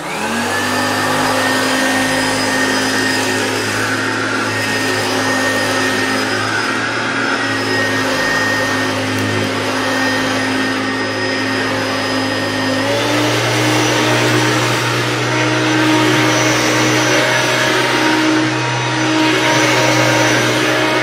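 Hoover Turbopower Plus upright vacuum cleaner switched on and running at its first speed, then switched up to its second speed about 13 seconds in, where the motor's pitch steps up and it runs a little louder.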